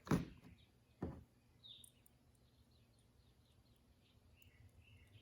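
Two sharp knocks, one right at the start and one about a second in, then faint, quick bird chirps repeating for the rest of the time.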